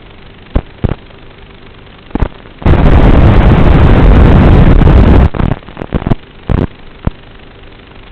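A very loud rush of noise lasting about two and a half seconds, strongest in the low range and overloading the recording, with short sharp pops before it and a string of shorter loud bursts after it, over a steady engine-like hum.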